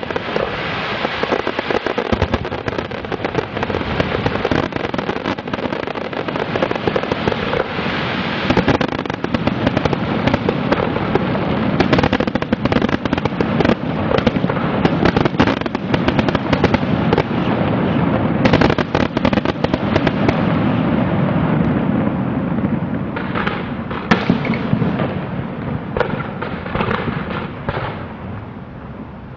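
Aerial fireworks display: a dense, continuous run of shell bursts and sharp crackling bangs, dying down over the last couple of seconds.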